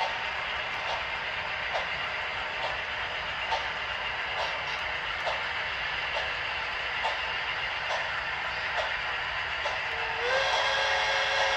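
HO scale model of the steam locomotive Pere Marquette 1225 running on its layout, its sound making a steady steam hiss with a sharp click about once a second. About ten seconds in its steam whistle sounds, a chord that slides up briefly and then holds.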